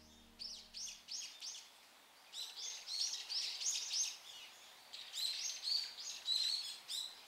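Small songbirds chirping: quick runs of short, high chirps, with brief pauses between the runs.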